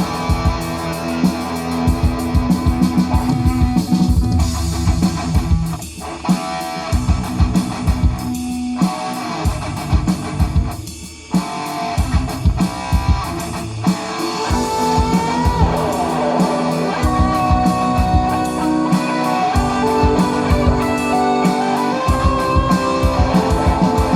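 Live instrumental rock: electric guitar lead over bass guitar and a steady beat, with bent notes in the solo and a short dip in the music about eleven seconds in.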